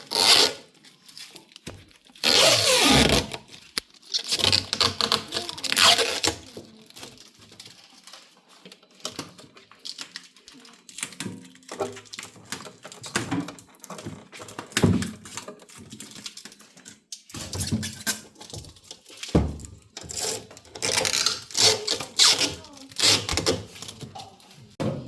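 Plastic protective film and wrapping being peeled and torn off a new fridge, crackling in irregular bursts with a few knocks between.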